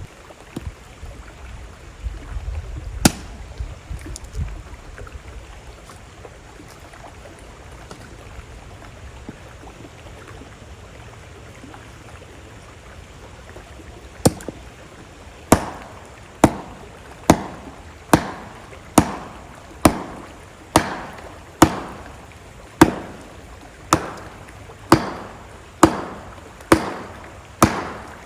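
Steady rush of a slow-moving river, with one sharp knock early on and, from about halfway, a run of about fifteen sharp knocks roughly one a second.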